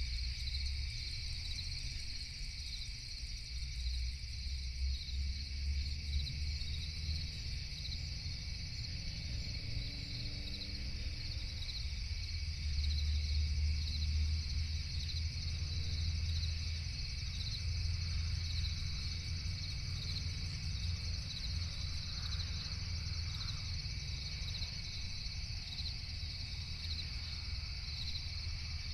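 Night chorus of crickets chirping steadily in rapid, even pulses, several insects at different pitches, over a constant low rumble.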